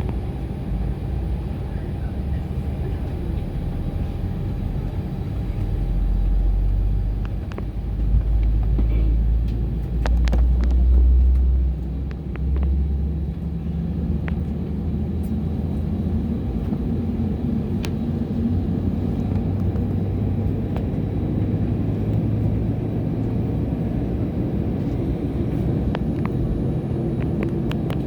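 Cabin noise of an Airbus A320 taxiing: a steady low rumble from the engines and the rolling gear, with louder, deeper surges of rumble for several seconds around the middle.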